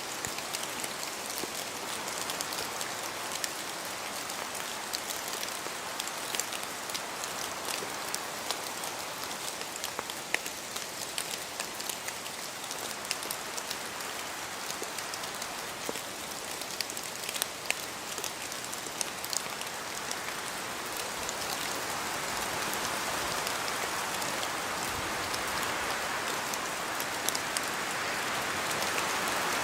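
Steady rain in a forest, with scattered louder drops pattering close by, building slightly toward the end.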